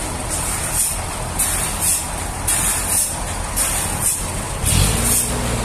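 A heavy engine running steadily, with a hissing noise high up that pulses about twice a second. About three-quarters of the way through, the engine note steps up and grows louder.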